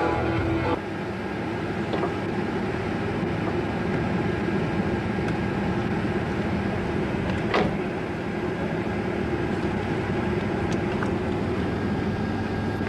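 Steady engine and road noise heard from inside a moving vehicle. A car radio playing rock music cuts off under a second in, and there is a single brief click about halfway through.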